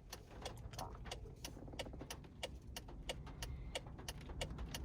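Storm wind buffeting a car, heard from inside the cabin as a steady low rumble, with irregular sharp ticks, several a second, of small things striking the car's body or glass.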